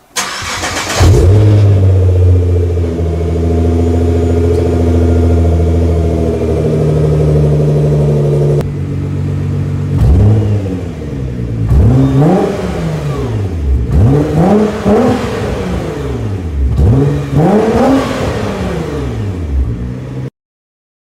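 Nissan GT-R R35's twin-turbo V6 comes in suddenly and runs at a fast, steady idle, which drops to a lower idle partway through. It is then blipped several times, the pitch climbing and falling back on each rev.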